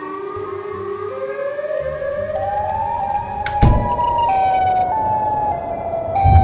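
A siren-like wailing tone rising in pitch over the first few seconds, then shifting up and down in steps, with a sharp hit about three and a half seconds in.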